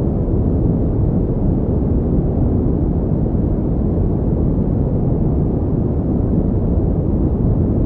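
Steady synthetic pink noise: an even, deep rushing hiss weighted toward the low end, unchanging throughout.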